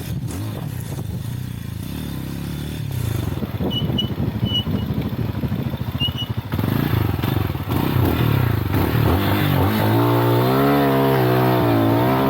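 Lifan Xpect motorcycle engine running under way, revs rising and falling, then holding a higher, steadier note for the last few seconds.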